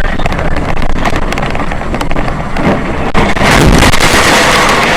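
Loud road and engine noise from a moving vehicle, with wind buffeting the microphone; it grows louder about three and a half seconds in.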